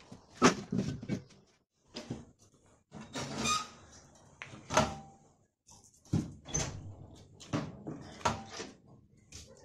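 Irregular knocks and scrapes of hand work, about a dozen spread unevenly, with a couple of short squeaks.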